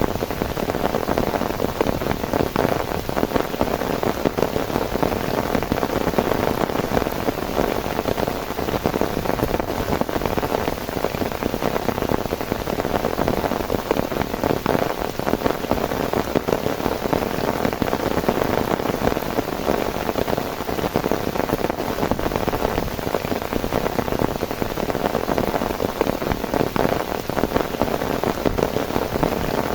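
Heavy rain falling steadily, a dense, even patter of many drops with no let-up.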